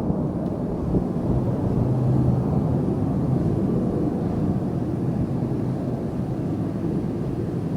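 Military fighter jet engine rumbling steadily, a low, noisy drone.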